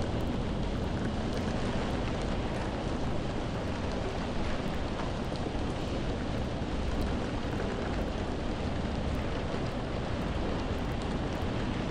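Steady rain falling, an even hiss with a deep low rumble underneath and faint scattered drop ticks.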